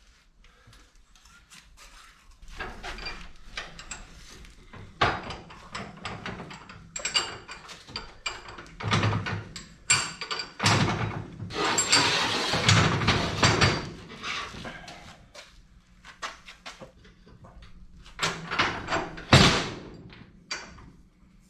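Metal clanking and knocking from hand work on a skid steer's hydraulic cylinder and its pin and bolt, irregular strikes with a longer, noisier scraping stretch of about two seconds past the middle and one sharp, loudest knock near the end.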